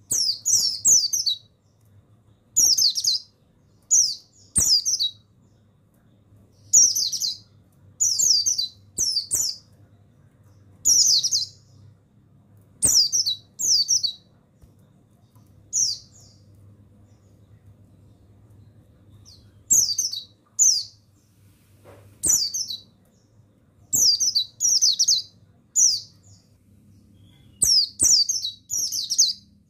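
Buxtoni white-eye (pleci) singing in short bursts of high, quick chirping notes, two to four at a time with pauses between, over a faint low hum.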